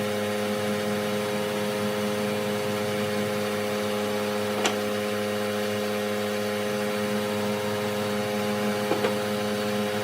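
Wood lathe motor running steadily with an even hum, with a sharp click about halfway through and two lighter knocks near the end.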